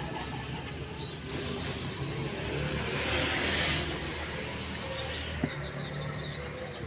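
Many caged sogon (little spiderhunters) chirping and trilling at once in a dense, high-pitched chatter. A short sharp knock cuts through a little past five seconds in.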